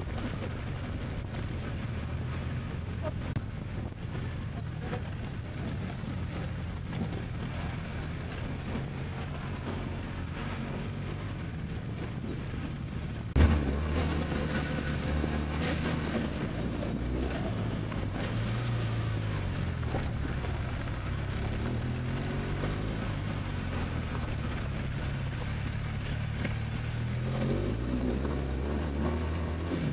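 An engine running steadily under wind noise on the microphone, its pitch drifting up and down; about halfway through it abruptly becomes louder.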